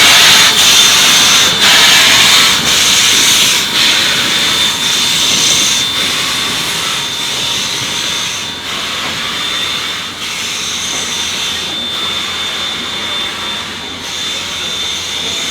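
Steam locomotive Chesapeake & Ohio 1309, a 2-6-6-2 Mallet, working under steam: sharp exhaust chuffs about once a second over a steady loud hiss of escaping steam with a thin high whistling note, the chuffs spacing out and the whole sound growing fainter.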